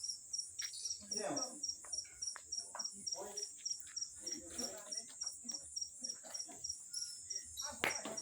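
Crickets chirping in a rapid, even pulse about five times a second over a continuous high trill, with a wood fire crackling in scattered pops and one louder pop near the end.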